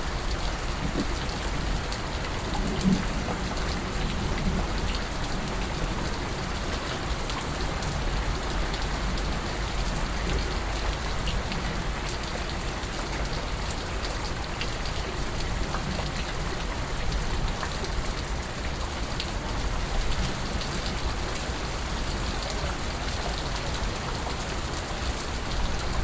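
Steady rainfall with individual drips and drops pattering on surfaces, over a constant low rumble.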